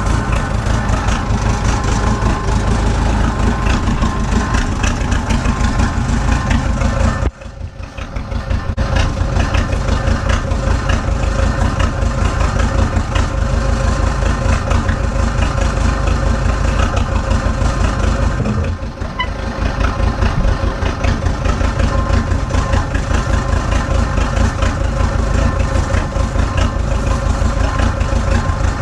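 Truck engine idling steadily. The sound drops out sharply and briefly about a quarter of the way in, and dips again a little past the middle.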